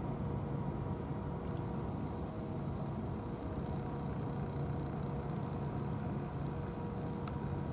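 A steady mechanical hum with fixed low tones, like an engine running, and a couple of faint clicks near the end.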